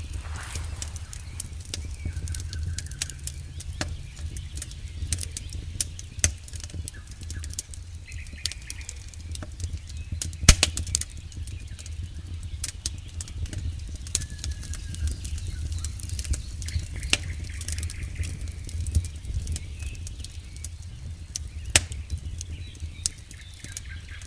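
Wood campfire crackling, with frequent sharp snaps and pops over a steady low rumble of the burning fire. A louder pop comes about ten seconds in.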